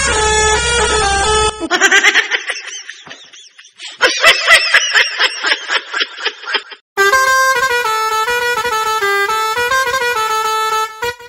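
Truck musical horns playing melodic tunes in several abrupt clips: warbling tones for the first few seconds, then a stepped tune of changing notes from about seven seconds in.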